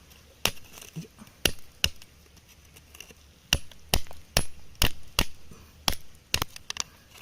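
A hand tool striking rock and stony ground in sharp, separate blows, about a dozen in all. The blows come two or so a second, with a pause of a second and a half between the first few and the rest.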